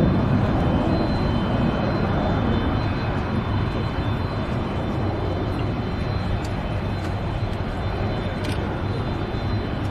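Jet noise from a Boeing 727's three JT8D turbofan engines as the aircraft flies its display, a steady rushing sound that slowly gets quieter.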